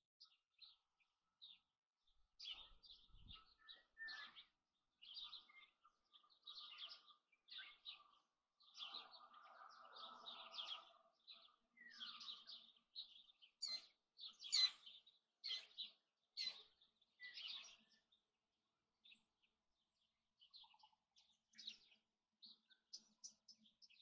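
Small birds chirping and calling in a quick string of short, high chirps. They start about two seconds in, are busiest in the middle, thin out briefly, then pick up again near the end.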